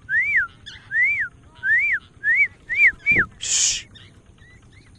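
A person whistling a repeated rising-and-falling recall note, six times in a row and quicker toward the end, calling a falcon back to the hand. A short hiss follows about three and a half seconds in.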